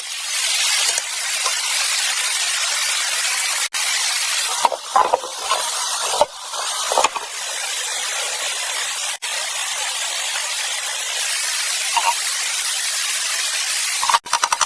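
A steady hiss with a few short clinks and knocks, broken by brief sudden gaps.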